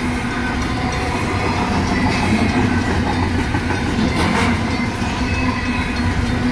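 Double-stack intermodal train's well cars rolling past at a grade crossing: a steady rumble with wheel clatter on the rails. The crossing's electronic and mechanical bells ring throughout.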